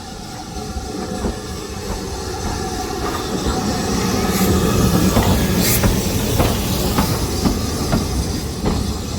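Heritage steam-hauled passenger train pulling into the station, growing louder as it nears, its wheels clicking over the rail joints, with a couple of brief high squeals about halfway through.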